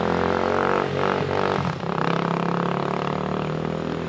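Dirt bike engine running at a steady speed, with a brief dip in level just under two seconds in.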